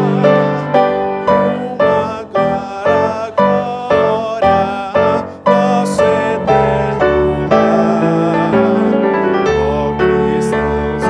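Slow piano music, with notes struck at an even pace, and a voice singing over it.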